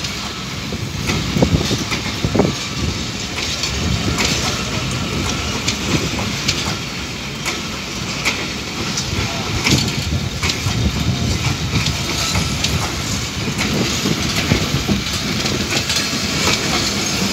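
Sagordari Express passenger coaches rolling past close by: a steady rumble of steel wheels on the rails, broken by frequent sharp clicks and clatter.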